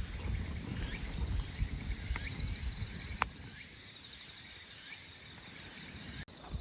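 A chorus of insects chirring in a steady high drone, with a low rumble in the first half and one sharp click about three seconds in.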